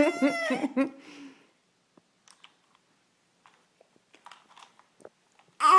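A young child laughing and vocalising for about the first second, then faint wet mouth clicks and smacks, then a loud drawn-out vocal sound starting just before the end.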